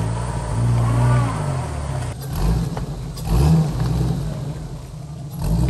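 An off-road 4x4's engine revving up and dropping back several times, working under load to get a stuck vehicle out during a recovery.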